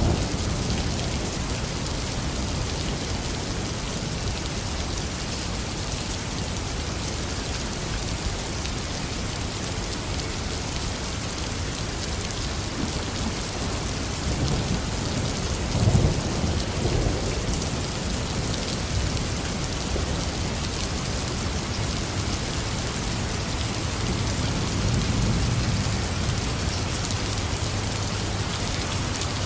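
Heavy rain falling steadily, with low thunder rumbling now and then: a short louder roll about halfway through and a softer one later on.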